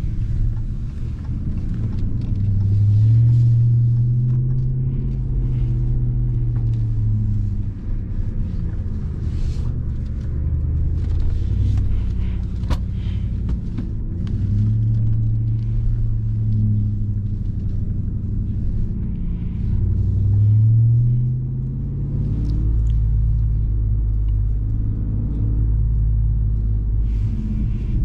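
2021 RAM 1500 TRX's supercharged 6.2-litre Hemi V8 running on the move, its note climbing as the truck speeds up about two seconds in, again near the middle, and once more about twenty seconds in, then easing off, over a steady low rumble.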